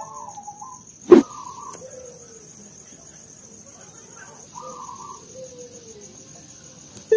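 Birds calling faintly in the background, with a steady high thin whine underneath and one sharp click about a second in.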